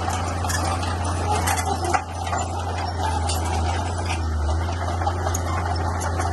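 Bulldozer's diesel engine running steadily with a low drone, with scattered light clicks and high squeaks over it.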